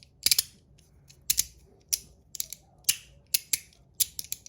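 3D-printed slider fidget clicking as it is slid back and forth, a sharp click about every half second, some in quick pairs.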